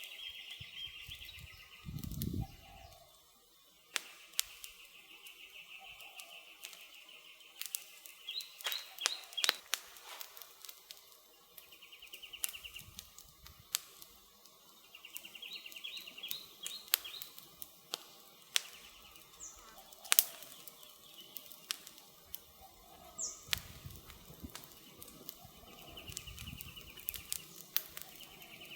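Wood campfire crackling, with frequent sharp pops and snaps. A high chirping trill from forest wildlife comes and goes every few seconds.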